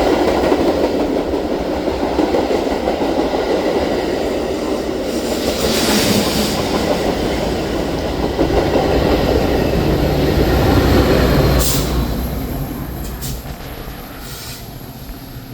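A train rolling past on the rails, a loud steady rumble of wheels and cars that fades away over the last few seconds, with a few sharp clicks and a faint high squeal near the end.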